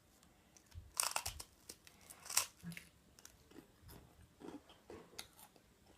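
A person chewing a bite of a seaweed roll close to the microphone: a few sharp, louder chewing sounds about a second and two and a half seconds in, then softer, irregular chewing.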